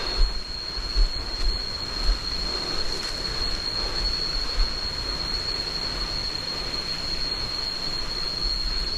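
A steady high-pitched drone of insects holding one unchanging pitch, over an even hiss. There are a few low thumps in the first two seconds.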